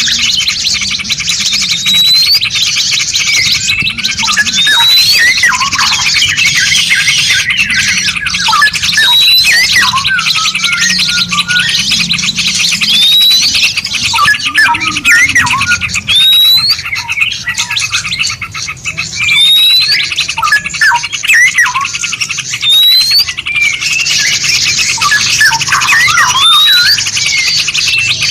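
Several songbirds calling together: rapid chirps and twitters, with a short sharp rising whistle repeating every couple of seconds, over a dense high buzzing trill.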